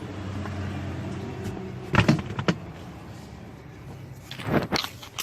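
A car's engine running steadily, with a few sharp knocks and rustles about two seconds in and a louder clatter near the end.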